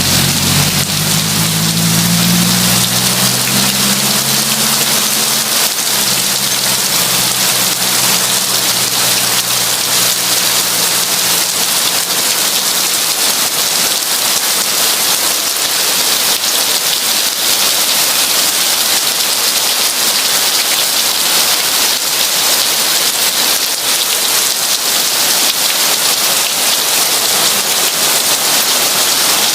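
Heavy rain falling in a steady, even hiss. A low rumble dies away over the first ten seconds or so.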